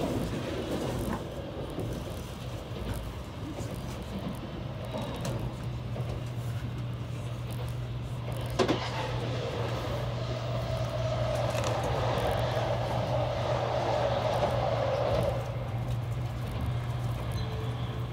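Tokaido Shinkansen running at speed, heard inside the passenger car: a steady low rumble and hum with a rushing noise over it. There is one sharp click about eight and a half seconds in, and the rush swells louder from about ten to fifteen seconds in.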